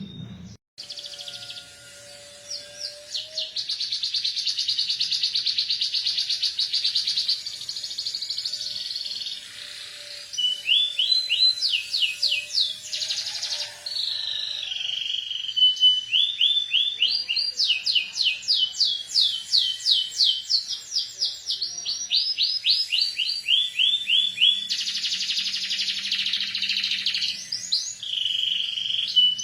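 Domestic canary singing long, fast trills and rolls of quickly repeated rising notes, its song filled with phrases copied from the ciblek gunung.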